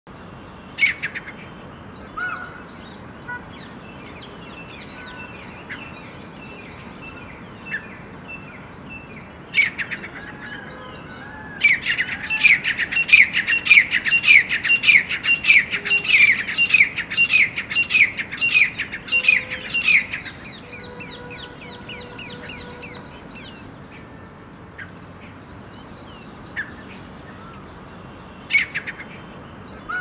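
Birds calling: a loud run of rapid, repeated down-slurred notes, roughly two to three a second, lasting about eight seconds through the middle. Scattered chirps and sharp single calls come before and after it.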